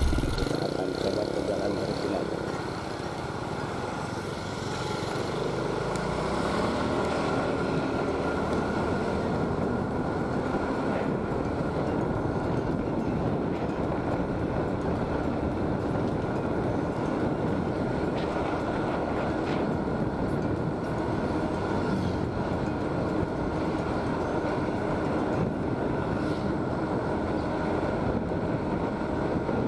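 Motorcycle being ridden: the engine running under steady road and wind noise, growing a little louder a few seconds in and then holding steady.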